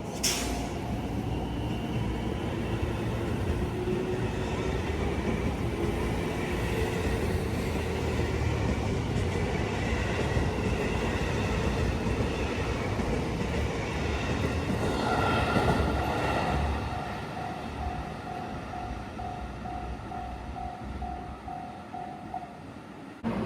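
Electric train running, its motor whine rising slowly in pitch as it gathers speed. Later a single steady tone beeps on and off about twice a second for several seconds.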